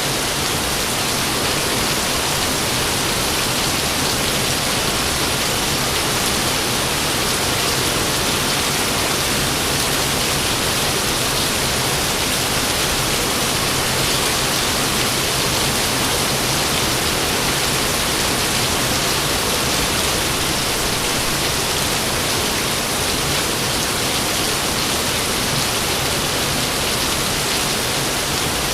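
Steady rain falling, an even unbroken hiss with no thunderclaps.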